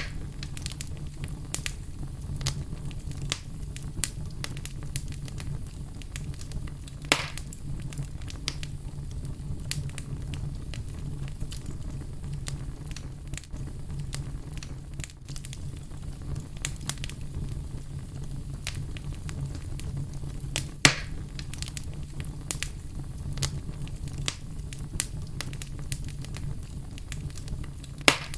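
Fire crackling steadily with a dense run of small pops over a low rumble. Three much louder pops stand out: one about a quarter of the way in, one about three-quarters in, and one near the end.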